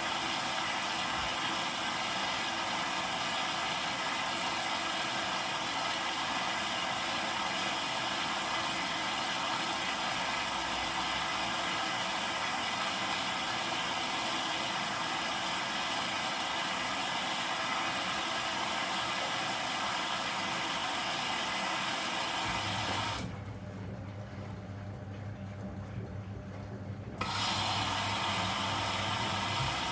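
Zanussi DL22 washing machine running a 90-degree boil wash, with a steady mechanical hum and whine. About 23 seconds in, the higher part of the sound drops out for roughly four seconds, leaving a low hum, then comes back.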